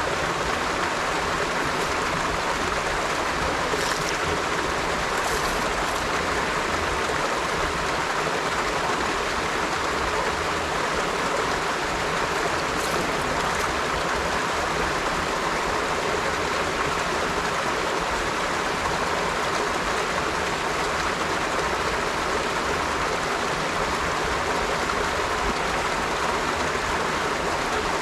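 River water flowing, a steady rushing wash with faint splashes.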